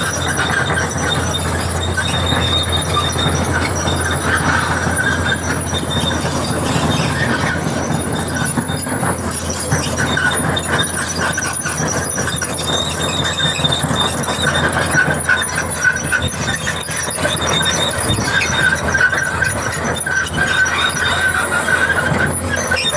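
Komatsu PC200-7 hydraulic excavator running, with a steady high-pitched squeal over a low drone; the squeal fades and swells again several times.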